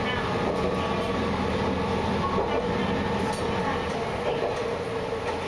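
Isumi Railway diesel railcar running steadily along the line, heard from the cab: a continuous engine drone and wheel-on-rail rumble, with a few faint ticks.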